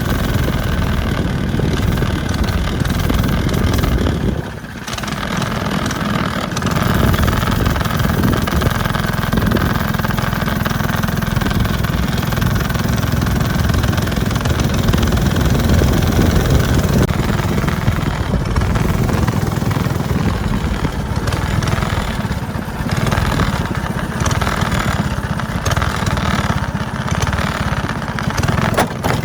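270cc single-cylinder go-kart engine with a loud aftermarket exhaust running steadily as the kart is driven, its sound dipping briefly about four and a half seconds in.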